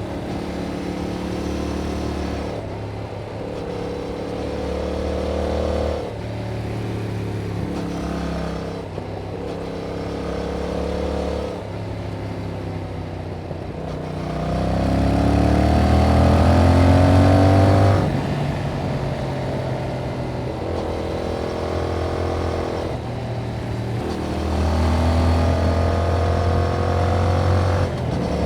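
Yamaha MT-07's 689 cc parallel-twin engine through its stock exhaust, riding under changing throttle with several steps in revs. About halfway through, the engine pulls hard with the pitch rising for about four seconds, then drops suddenly as the throttle closes.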